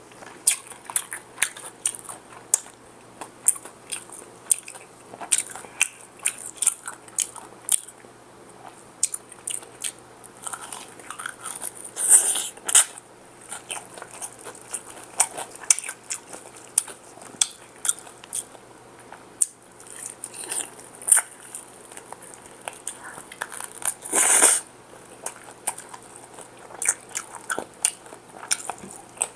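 Close-up eating sounds: crisp fried chicken being bitten and chewed, with many small crackling crunches and two louder crunchy bites, about twelve and twenty-four seconds in.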